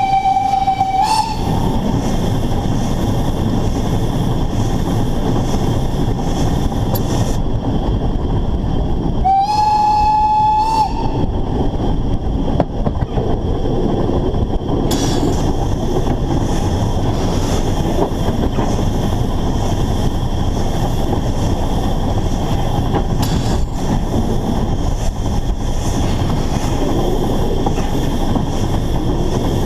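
Narrow-gauge steam locomotive under way, with loud continuous running noise. Its steam whistle sounds twice: one blast already going cuts off about a second in, and a second blast of about a second and a half comes about nine seconds in.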